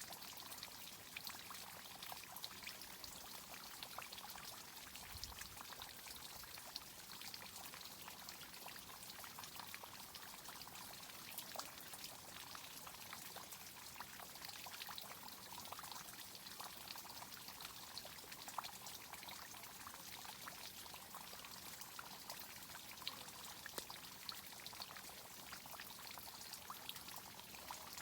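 Water from a tree irrigation system running steadily, pouring and trickling with many small drips and splashes.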